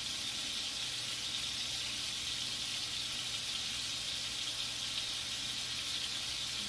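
Ground beef burger patties sizzling steadily in a pan on the stove, an even, unbroken hiss.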